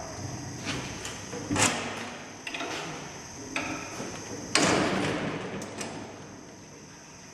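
Metal parts and tools being handled on a workbench: a few separate clicks and knocks, then a longer scrape about halfway through, over a faint steady high-pitched tone.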